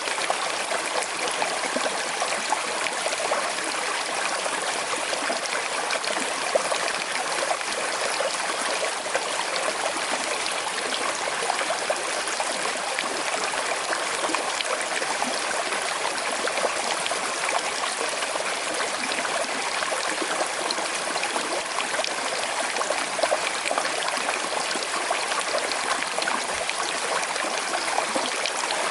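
Small river flowing over stones with a slight current, a steady trickling and babbling of water.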